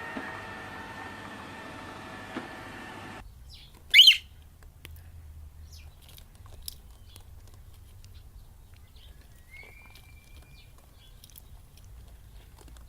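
A steady hum with a few held tones cuts off about three seconds in. A moment later a bird gives one loud, short, high squawk. Several seconds later comes one brief, slightly rising whistled chirp, over faint clicks.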